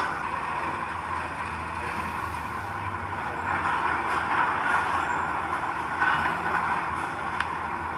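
Diesel engine of a heavy construction machine running steadily, with a steady hiss over a low hum.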